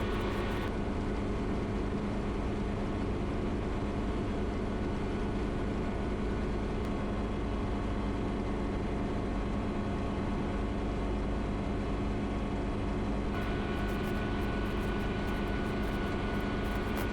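Schweizer 300 helicopter in cruise flight: its piston engine and rotors run steadily, heard from inside the cabin. A higher hiss drops away about a second in and comes back near the end.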